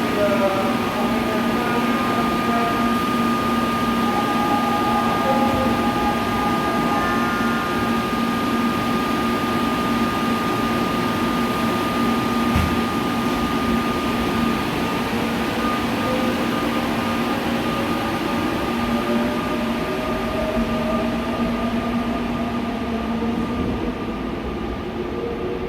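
Seoul Subway Line 4 electric train running loudly alongside the platform: its motors and inverter give a steady whine over a rolling rumble. A second tone climbs slowly in pitch through the second half.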